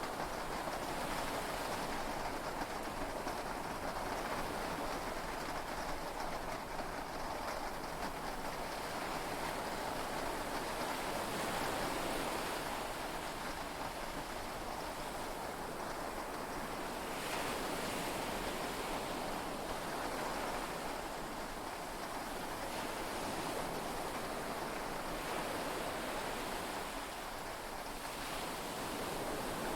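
Heavy rain and sea waves heard from inside a yacht's cabin: a steady wash of noise that swells a little now and then, with no thunderclap.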